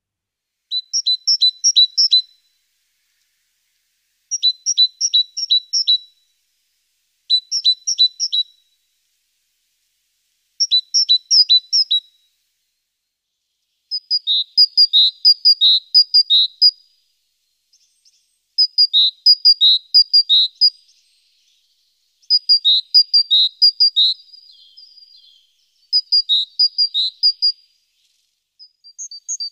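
A songbird singing short phrases of quick, high two-pitched chirps, each phrase repeated every three to four seconds, with the later phrases running a little longer.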